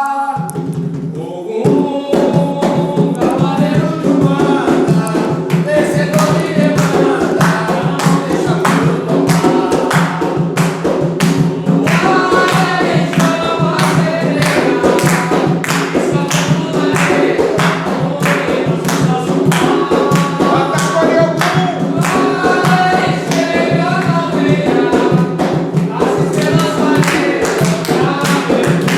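Group singing of an Umbanda ponto, a sacred chant to Ogum, with hand percussion keeping a steady beat that comes in about two seconds in.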